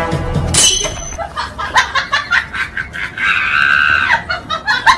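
A person laughing in short bursts, with a held high-pitched squeal a little past three seconds in.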